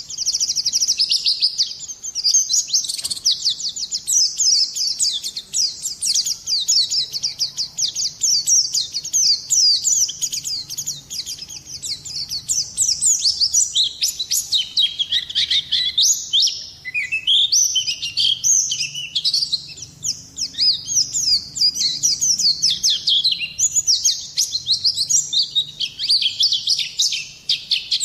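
White-eye (pleci) singing a long, fast, high-pitched twittering song: rapid runs of chirping notes with hardly a break.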